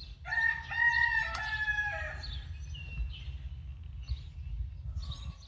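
A rooster crowing once, one drawn-out call of about two seconds that falls slightly at the end, with small birds chirping afterwards.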